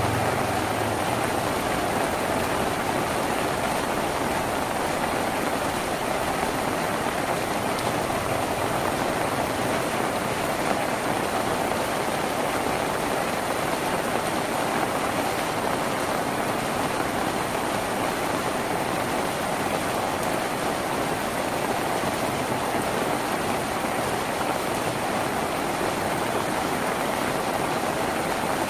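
Steady rain falling on a tin roof, an even, unbroken hiss with no let-up.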